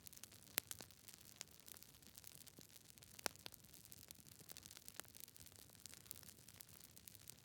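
Campfire crackling: sharp pops and snaps scattered irregularly over a soft, steady hiss of burning, the loudest pop a little past three seconds in.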